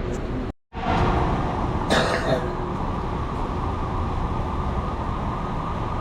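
Steady rain noise with the hiss of a wet night outdoors, cutting out completely for a moment about half a second in, with a short louder burst about two seconds in.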